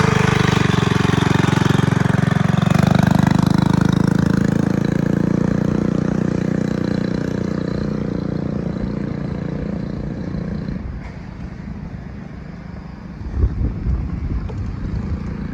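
Mini bike's small engine, fitted with a new exhaust, running hard as it pulls away, with a slight rise in pitch a few seconds in. It then fades steadily as the bike rides off into the distance, and low gusts of wind on the microphone follow near the end.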